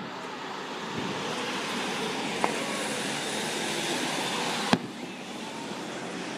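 Fireworks: a steady spraying hiss builds over several seconds. A small crack comes about halfway through and a louder, sharper bang near the end, after which the hiss falls away.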